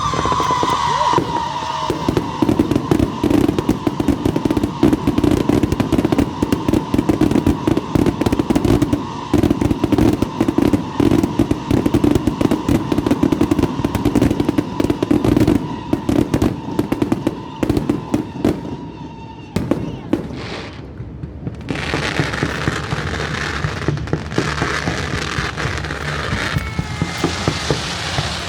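Fireworks going off in a dense, rapid barrage of cracks and bangs, with a steady whistle over the first twenty seconds. It eases briefly about twenty seconds in, then crackling starts up again.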